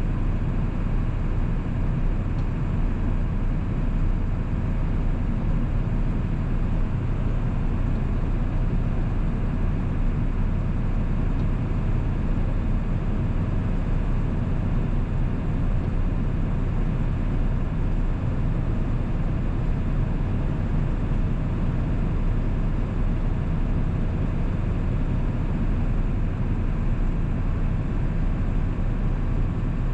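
A 1997 7.3 Powerstroke turbo-diesel V8 running steadily while driving, a constant low drone with road noise underneath and no change in engine speed.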